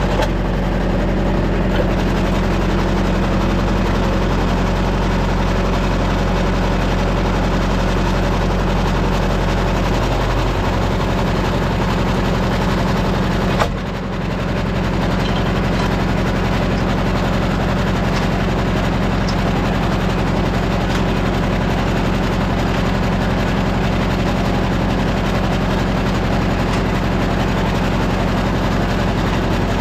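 Kubota tractor's diesel engine idling steadily, its note shifting slightly about ten seconds in. A single sharp click or knock sounds about halfway through.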